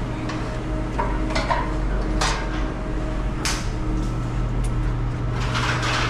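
Light metallic clinks and knocks at irregular intervals, as of metal parts or tools being handled, over a steady low hum.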